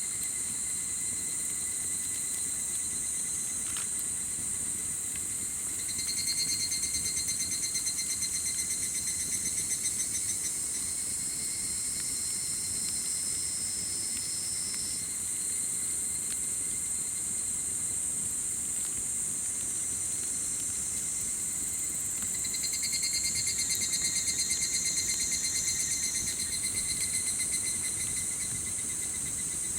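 Crickets and other insects chirping in a dense, steady chorus. A pulsing trill swells louder twice, about six seconds in and again past twenty seconds.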